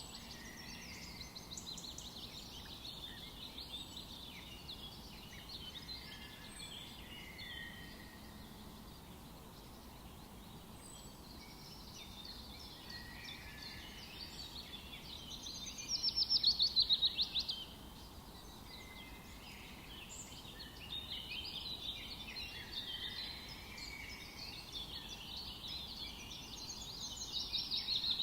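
Several forest birds singing at once, with overlapping chirps and trills over a faint steady background hiss. A loud, rapid trill stands out about halfway through, and a burst of louder song comes near the end.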